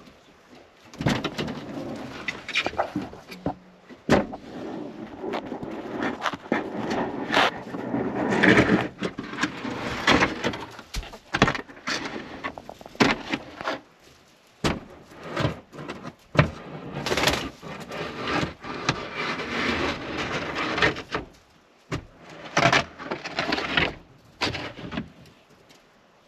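Domestic hens clucking and murmuring in a coop, mixed with irregular knocks, bumps and scraping.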